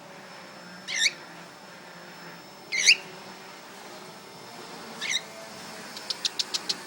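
Cockatiel giving three short chirping calls, each bending in pitch, about two seconds apart, followed near the end by a quick run of about seven sharp clicks.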